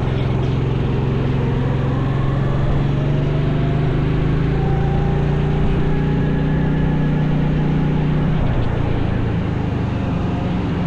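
A 100cc racing engine running hard under load. Its pitch climbs slowly for about eight seconds, then drops as it comes off the throttle.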